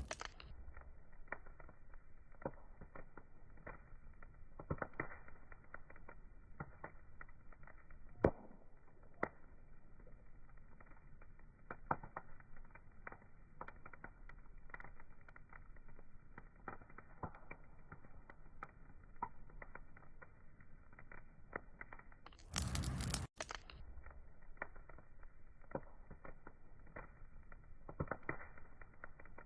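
Burning wood fire crackling, with irregular pops and snaps of varying strength over a faint hiss. A louder burst of hiss lasting about a second comes about three-quarters of the way through and cuts off sharply.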